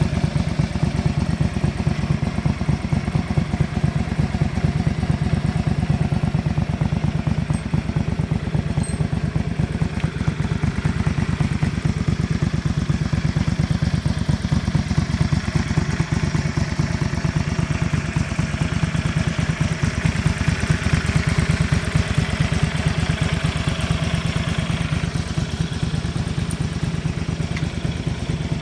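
Honda VT250 Spada's liquid-cooled 250 cc V-twin engine running steadily at idle, with no abnormal engine noise.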